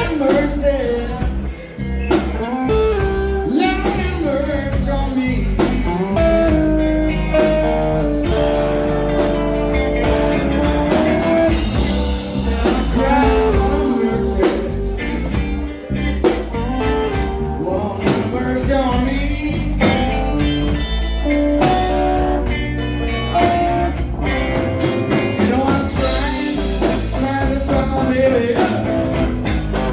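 Live blues band music with electric guitar and singing over a steady bass and drum backing.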